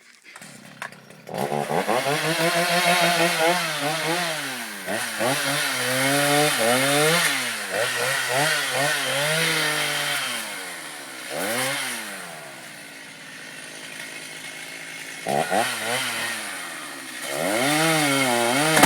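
Chainsaw engine starting up about a second in and revved up and down over and over, settling to a lower idle for a few seconds past the middle, then revved again near the end.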